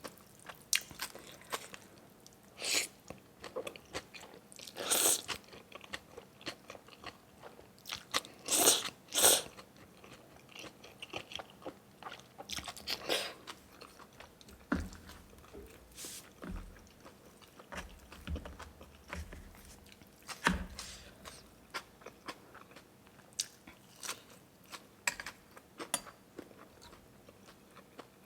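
Close-miked eating: a person chewing and biting through spicy beef noodle soup and roasted chilies, with irregular wet smacks and clicks and a few louder bursts in the first ten seconds.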